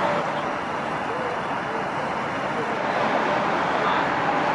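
Steady rushing vehicle noise, even and unbroken, with faint voices underneath.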